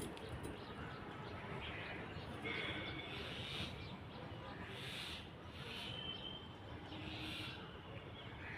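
Faint outdoor bird calls, short chirps and calls coming every second or so over a steady background hiss.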